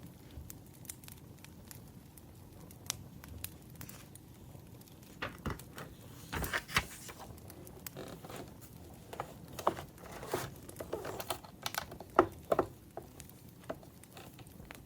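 Wood fire crackling faintly with scattered small pops, while paper rustles and crinkles in bursts through the middle, with a few sharper clicks.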